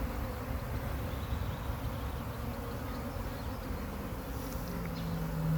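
Many bees buzzing together in a steady hum, with one louder, lower buzz near the end as a bee comes close.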